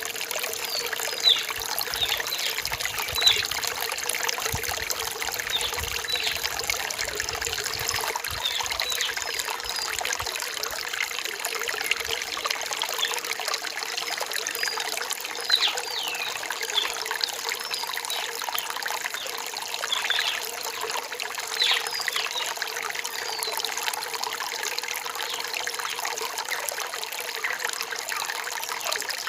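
Small forest stream trickling steadily, with birds giving frequent short, high, falling chirps over it.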